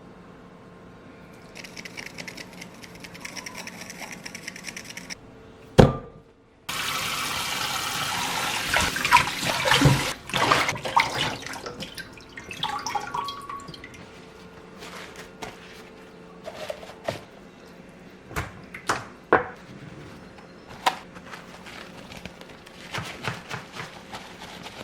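Tap water running into a sink for a few seconds, after a sharp knock, then tapering off into scattered clicks and handling knocks.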